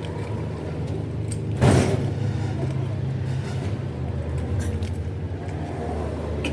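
A heavy engine running steadily with a low hum. About a second and a half in there is a short, loud burst of noise.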